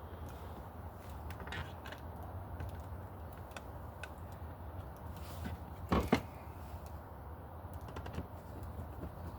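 Scattered light clicks and taps as a metal light fixture and its wires are handled against an outdoor electrical box, with two sharper knocks about six seconds in.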